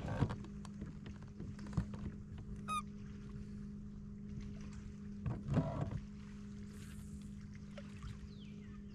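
Knocks and clatter on a fishing kayak, in clusters right at the start, near two seconds and again around five to six seconds, over a steady low hum. A bird gives falling whistles near the end.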